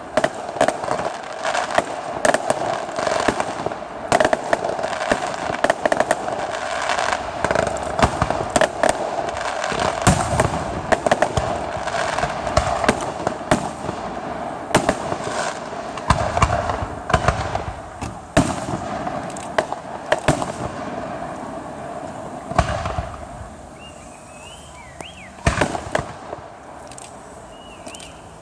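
Fireworks display: a dense barrage of rapid bangs and crackling for about twenty seconds, then thinning out to a few separate bangs.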